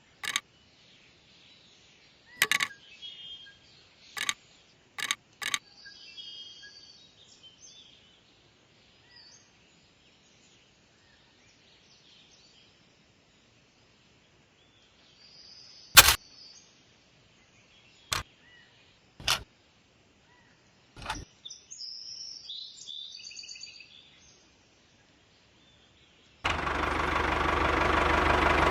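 Birds chirping, broken by several sharp clicks, one loud one about halfway through. Near the end a loud, steady machine hum with many overtones starts abruptly and grows slightly louder, like a small motor running.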